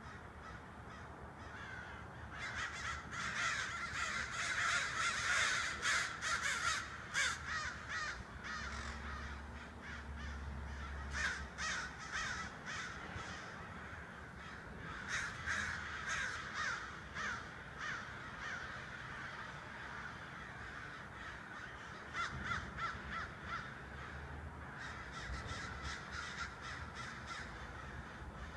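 A large flock of crows cawing, many harsh calls overlapping into a continuous din that swells and eases in waves.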